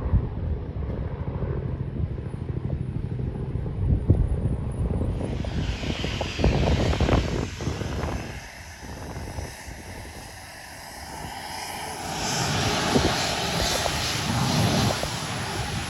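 Airliner engines running, a low rumble at first, then a broader rushing engine noise that fades midway and swells again in the last few seconds.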